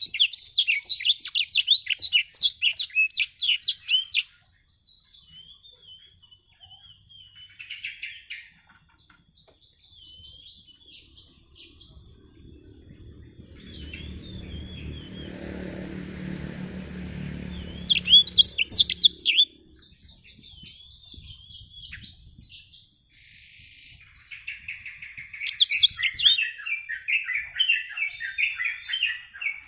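Black-throated canary (blackthroat) singing in bursts of rapid, high trilled phrases, loudest at the start, briefly about two thirds of the way through and again near the end, with softer twittering between. A low rumble rises under the song in the middle and stops at the second loud burst.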